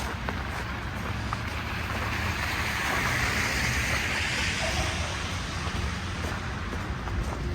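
A car driving past on a snowy street, its tyre hiss swelling to a peak midway and fading away, over a steady low rumble of city traffic.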